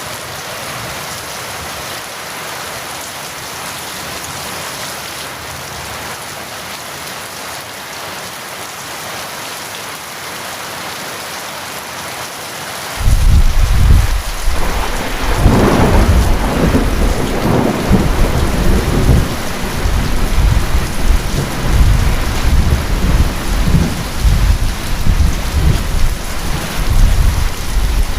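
Steady rain hiss for about thirteen seconds, then thunder breaks in suddenly with a loud crack and a long rolling rumble under the continuing rain.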